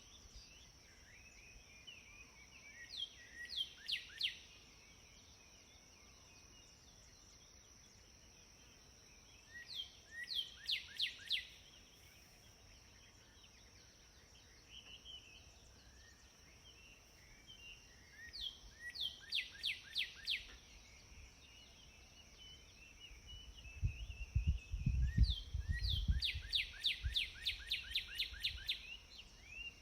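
A songbird repeating the same short song four times, each a quick run of falling notes, over a steady high hiss. A low rumble comes in near the end.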